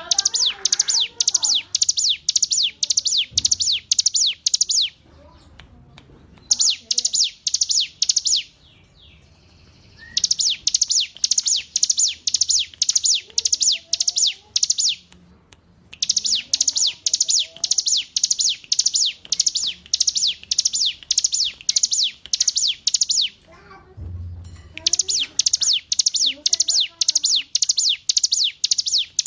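Hill prinia (ciblek gunung) singing: phrases of fast, evenly repeated high notes, each sweeping downward. The phrases last several seconds and are broken by short pauses, about five of them.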